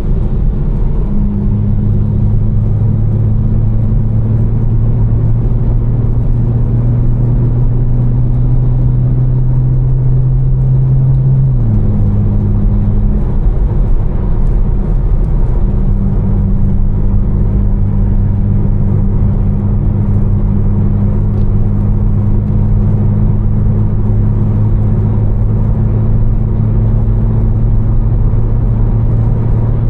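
Tuned BMW M4's twin-turbo inline-six, fitted with catless downpipes and a Fi exhaust, droning at a cruise. Its pitch climbs slowly, then drops sharply a little before halfway as the car shifts up, and after a brief lull it settles into a steady drone. A constant hiss of tyres on the wet road runs underneath.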